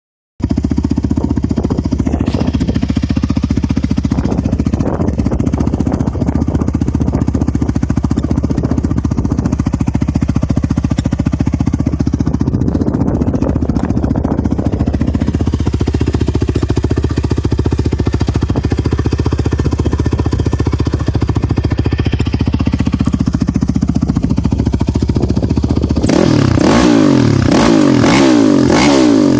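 Honda TRX450R ATV's single-cylinder four-stroke engine idling steadily through a Barker's aftermarket exhaust, then revved up and down several times near the end, louder.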